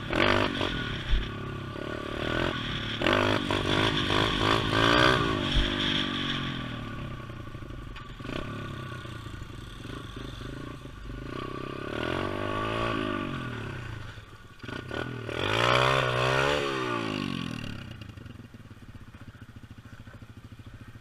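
Pit bike's small single-cylinder engine revving up and falling back in several surges, the strongest about two thirds of the way in, with a couple of sharp knocks early on; it settles lower near the end.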